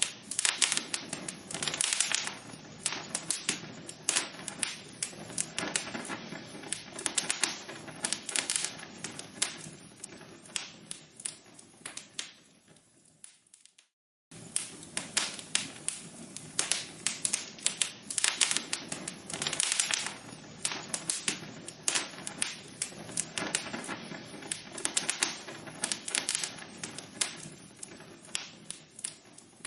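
Log fire crackling with dense, irregular sharp pops and snaps over a soft hiss. About 13 seconds in, the crackling fades away to a brief moment of dead silence, then starts up again suddenly at full strength.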